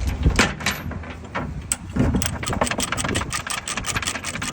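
Ratchet chain binder being cranked tight on a load-securing chain: quick, irregular metallic clicks and chain clinks, coming faster from about two seconds in, over a low steady rumble.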